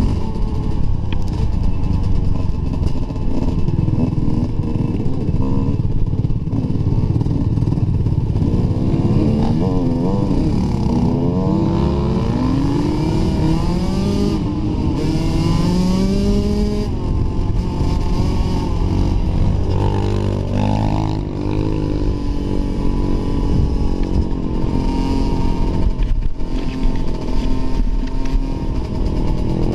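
Dirt bike engine running hard on a trail ride. Its pitch climbs and drops again and again as the rider accelerates, shifts and backs off.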